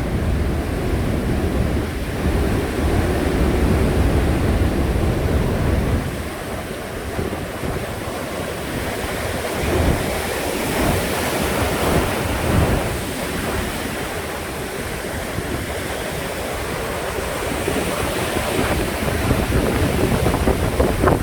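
Rough sea surf, stirred up by a typhoon, crashing and washing continuously, with wind buffeting the microphone. A heavy low rumble fills the first six seconds, and louder surges of breaking waves come at about ten and twelve seconds in.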